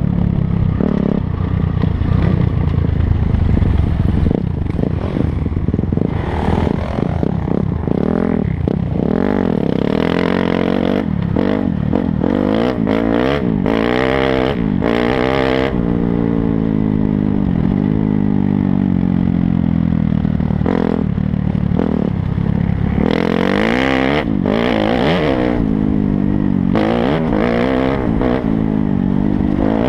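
Dirt bike engine revving up and down again and again as it rides, with one long easing-off in the middle and patches of rushing noise when it is on the throttle.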